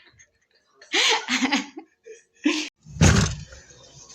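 Hard objects knocked and clattered together: a short scrape and rattle about a second in, a brief tap, then one loud knock about three seconds in that fades out.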